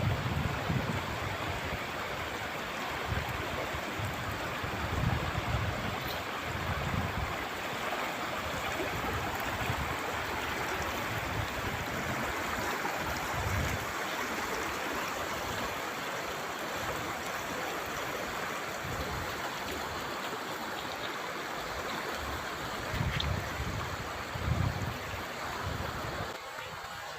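Shallow river water rushing steadily over stones, with irregular low rumbles mixed in.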